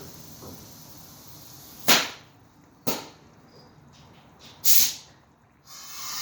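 Air-ride suspension valves letting off three short, sharp blasts of air, then a steady hiss of air starting near the end.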